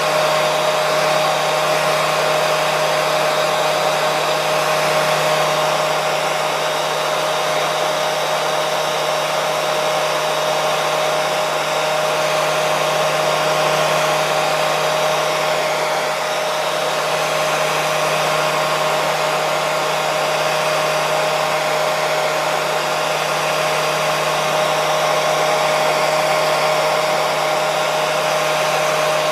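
Hair dryer running steadily at a constant setting: an even rush of blown air with a steady motor hum, played as a continuous soothing sound for babies who struggle to sleep.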